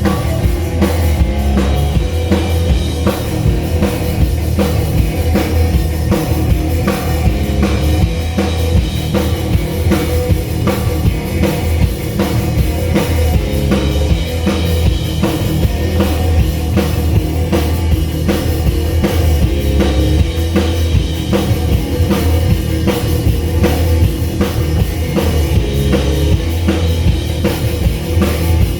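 Live rock band playing loudly over a stage PA during a sound check, the drum kit to the fore with steady kick and snare hits over a heavy low end.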